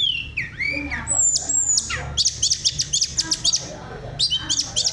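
Tledekan gunung songbird singing: high whistled notes that slide down in pitch, then a rapid run of short sharp notes about two seconds in, and more quick whistles near the end.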